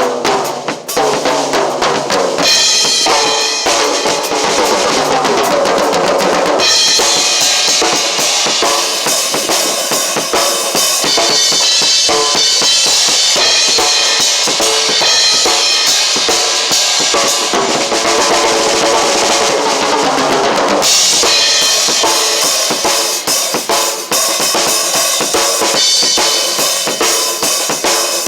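Drum kit played continuously, the pattern changing several times.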